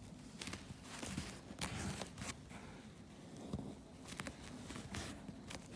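Irregular handling noises from hand-repair work on a rug: short scrapes, rustles and taps, a few each second.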